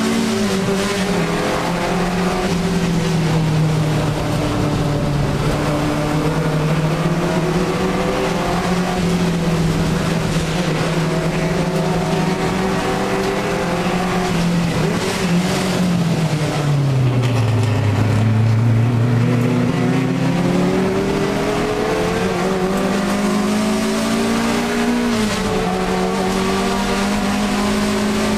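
Alfa Romeo 1750 GTV's twin-cam four-cylinder engine under racing load, heard from inside the cabin. It runs at steady high revs, drops well down in the middle as the car slows for a corner, then climbs again with a gear change near the end.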